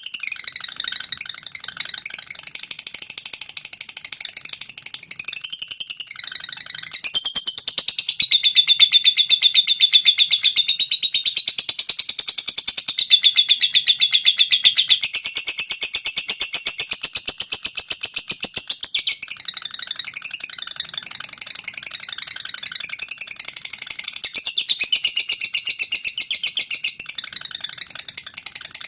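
Lovebird singing a long, unbroken, high-pitched chattering trill, the extended 'konslet' song that masteran recordings are made to teach.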